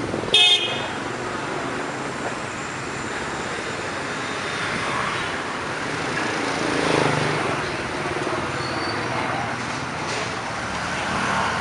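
Dense motorbike traffic running steadily, with a short horn beep about half a second in, the loudest sound. Passing bikes swell up briefly near the middle and near the end.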